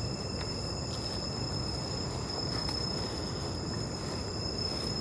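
Steady night ambience: a constant high insect trill, such as crickets, over a low rumbling noise, with a few faint ticks.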